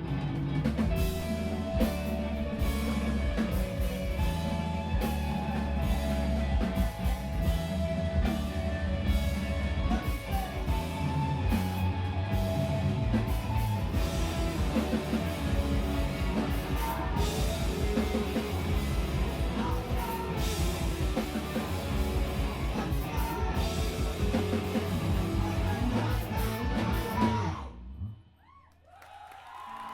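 Live screamo band playing loud, with drum kit, electric guitars and vocals; the song stops abruptly about two seconds before the end.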